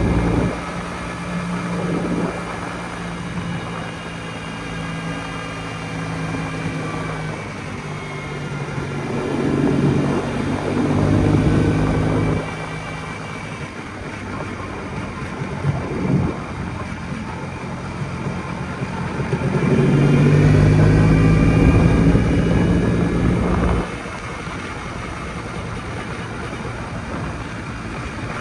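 Jawa 250 type 559 motorcycle's single-cylinder two-stroke engine running on a ride, with a steady note that gets louder as the throttle opens, twice (around ten seconds in and again around twenty seconds in), each time dropping back suddenly as it is closed.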